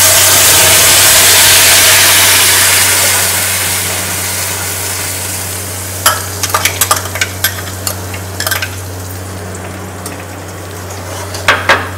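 Wet green coriander chutney paste sizzling loudly in hot ghee and cumin in a metal kadhai, the sizzle slowly dying down over the first few seconds. Later a spatula scrapes and taps against the pan as the paste is stirred, with another burst of scraping near the end.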